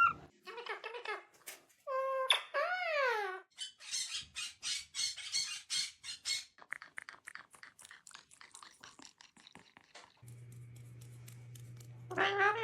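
Pet parrot calling: a couple of short squawks, then a call that falls in pitch, followed by a quick run of clicks that fades away. A low steady hum comes in near the end, with one more call at the close.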